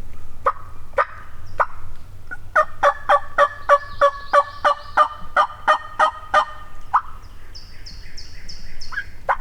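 Wild turkey yelps: a few single notes, then a steady run of about fourteen yelps at three or four a second. Near the end comes a short series of high, falling notes from a smaller bird.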